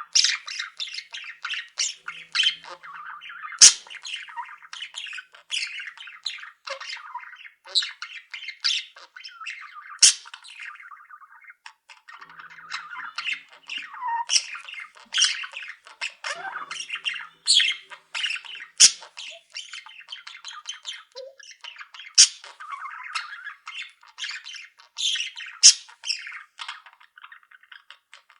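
A colony of pet budgerigars chattering without pause, with frequent short, sharp squawks cutting through the chatter.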